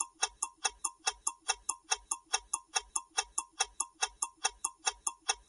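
Countdown-timer sound effect: a clock ticking quickly and evenly, about five ticks a second.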